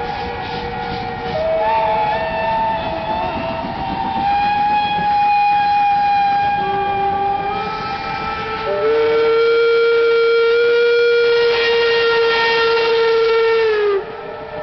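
Several locomotive whistles sounding together in long, overlapping held notes at different pitches, the notes shifting as one stops and another starts. The loudest stretch comes in the second half, and then the notes bend down in pitch and cut off just before the end.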